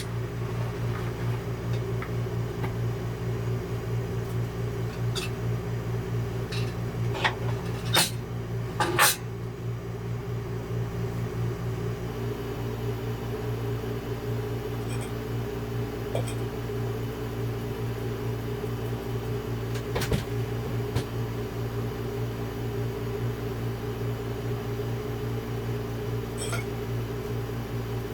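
Steady electrical hum of a running appliance or small motor, with a few sharp clicks and knocks: two about eight and nine seconds in, another around twenty seconds.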